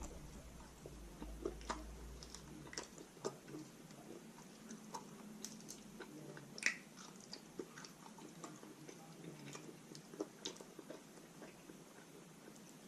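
A person chewing and biting roast chicken close to the microphone: faint, wet mouth sounds with scattered small clicks and smacks.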